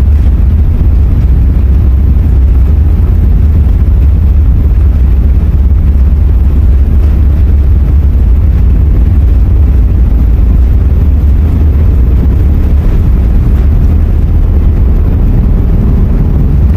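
Inside the cabin of an Airbus A380 on its takeoff roll: the four jet engines at takeoff thrust and the airframe make a loud, steady low rumble that does not let up.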